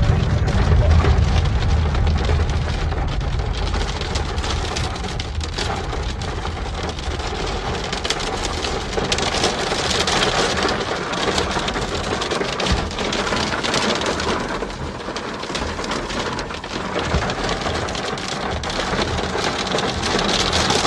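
Heavy rain mixed with hail hitting hard surfaces, a dense hiss with many sharp ticks that thicken from about eight seconds in. A low rumble sits under it for the first few seconds.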